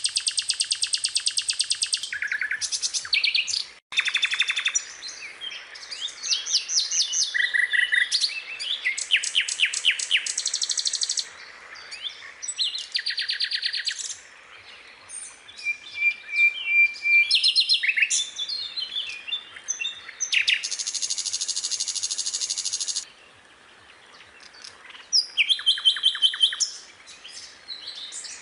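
Skylark singing a long, varied song of rapid high trills and chirping phrases that change every second or two, with a brief sudden break about four seconds in.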